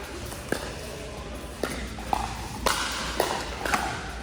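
Pickleball paddles striking the hard plastic ball: about six sharp pocks, several roughly half a second apart, as in a quick exchange of shots.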